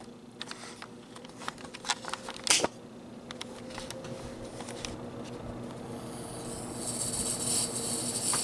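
Clicks of the GE box fan's switch being turned, then the fan starting on low speed: its shaded-pole motor buzzes with a steady low hum while the rush of air from the blades builds from about six seconds in. The buzz on low speed comes from a loose shading coil in the motor.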